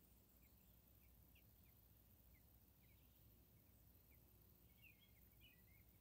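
Near silence, with faint, short high bird chirps repeating two or three times a second and a few louder ones near the end.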